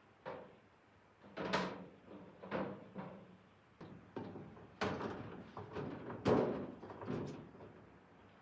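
A series of irregular knocks and clatters, about eight in all, some with a short ring after them, the loudest about one and a half seconds in and again near five and six seconds.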